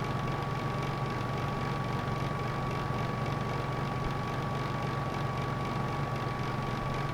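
Electric heater running: a steady, even noise with a low hum and a thin, steady high whine, unchanging throughout.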